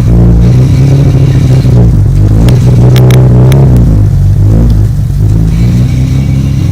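Nissan Skyline GT-R (BNR34)'s RB26 twin-turbo straight-six running, its exhaust note shifting a little in pitch with light throttle. A quick run of sharp clicks comes between about two and a half and four seconds in.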